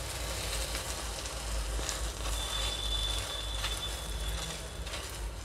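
Aloo paratha sizzling on a hot tawa as butter melts under it: a steady frying hiss with a few small clicks. A thin high tone holds for about two seconds in the middle.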